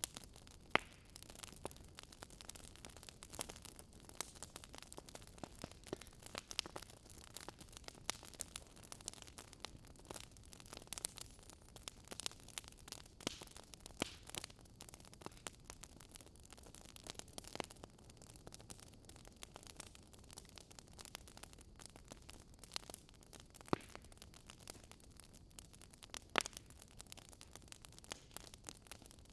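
Wood fire in a fireplace crackling: frequent small, irregular pops and snaps over a soft hiss, with a few sharper snaps standing out, about a second in and twice near the end.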